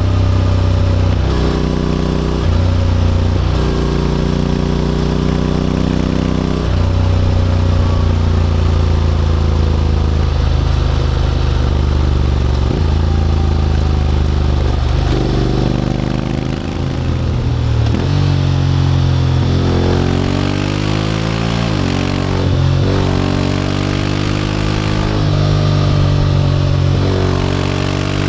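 Honda X-ADV 750 parallel-twin engine, breathing through an SC-Project titanium slip-on exhaust, under way. The engine note keeps climbing and dropping with throttle and gear changes, with a longer run of rising revs about two-thirds of the way through.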